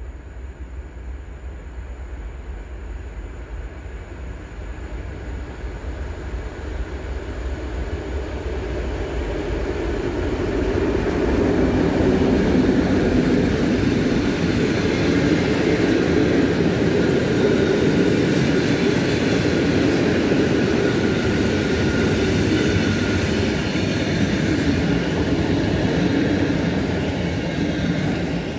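A train approaching and passing on the track: a rumbling noise that grows louder over about twelve seconds, stays loud for about fifteen seconds as it goes by, and falls away near the end.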